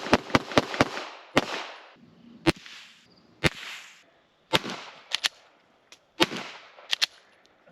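A string of gunshots, each a sharp crack trailing off into an echo: a quick run of about five in the first second, then single shots and close pairs roughly a second apart.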